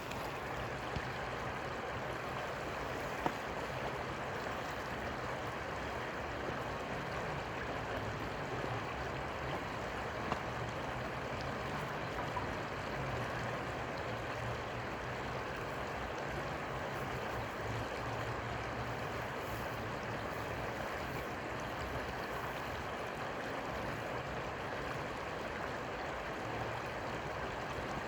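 Steady, even rush of flowing river water, with a faint low hum underneath.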